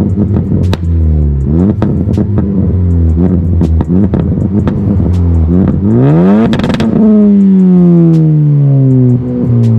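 Ford Focus ST's turbocharged four-cylinder engine revved through a catless AWE Track exhaust with a Vibrant Ultra Quiet resonator: a run of quick throttle blips, then about six seconds in one higher rev that falls away slowly. Sharp exhaust pops and crackles come through the whole time.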